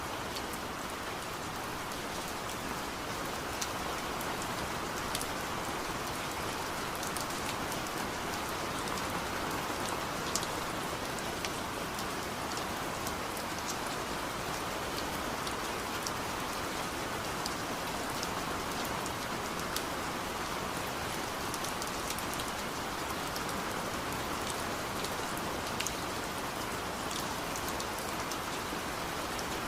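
Steady rain falling, a constant hiss with scattered close drops ticking sharply on a surface.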